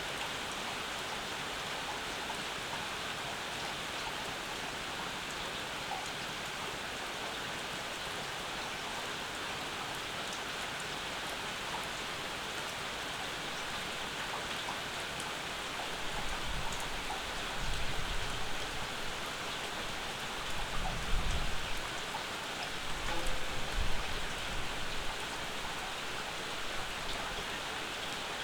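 Steady summer rain falling and pattering on surfaces, an even hiss. In the second half a few irregular low rumbles swell and fade over it.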